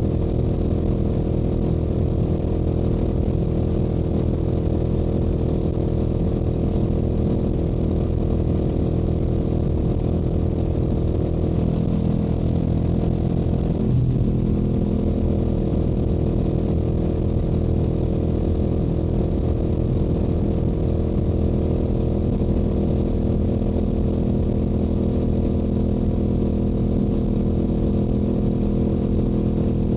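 Stock Yamaha YZF-R7's parallel-twin engine and exhaust running steadily at highway cruising speed, with a brief change in the engine note about halfway through.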